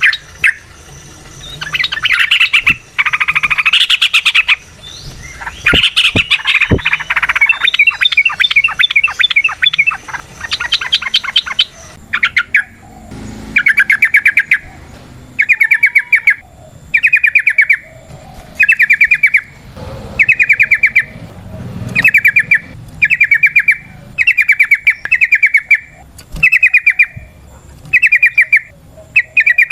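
Yellow-vented bulbul singing: a dense, bubbly chatter of overlapping notes, settling about twelve seconds in into short rapid trilled phrases repeated about once a second, the long run of song that keepers call ropel.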